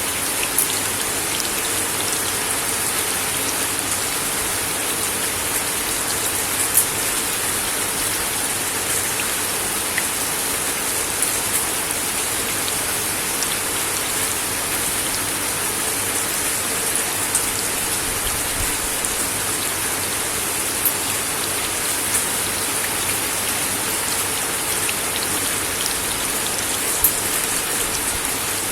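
Steady rain falling on a wooden deck, an even hiss with scattered louder individual drops striking the boards.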